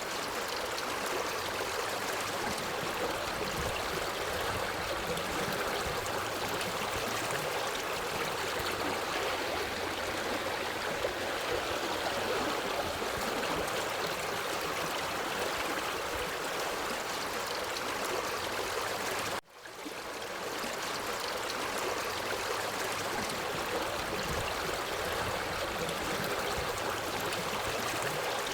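Forest stream flowing steadily, an even rush of water. About two-thirds of the way through it cuts out for a moment and swells back in, as at a loop point.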